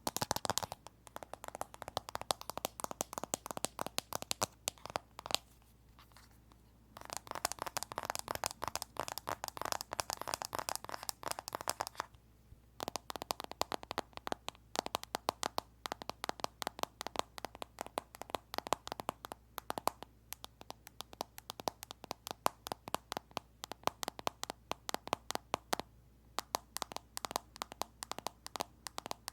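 Fast tapping on an iPhone: quick, crisp clicks, many a second, in long runs broken by brief pauses.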